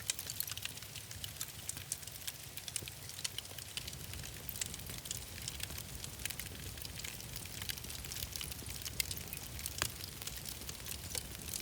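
Wood fire in a fireplace crackling steadily, with frequent small pops and two sharper snaps near the end, over a low steady rumble.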